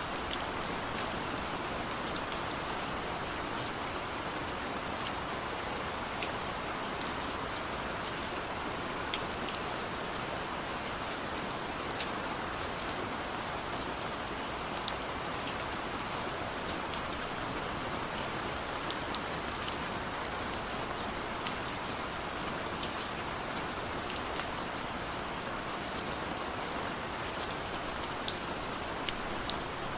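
Steady rain falling, with many sharp ticks of single drops landing close by scattered through it.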